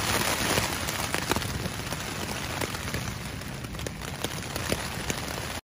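Rain falling on a tent: a steady hiss with many scattered, sharp drop ticks.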